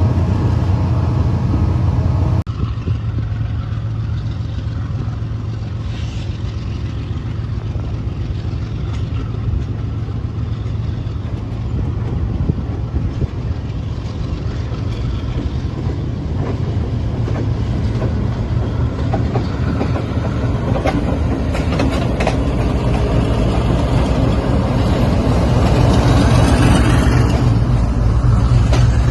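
Diesel freight train running past: a steady low diesel engine drone, with wheel and rail noise building up and growing louder in the last several seconds.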